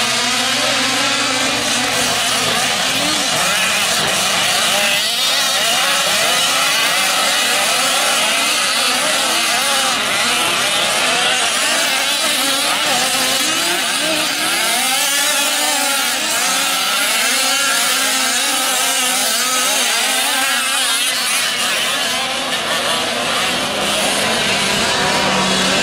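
Several fifth-scale RC trucks' small two-stroke gasoline engines running at once, revving up and down as they race around the dirt track, their pitches overlapping and wavering.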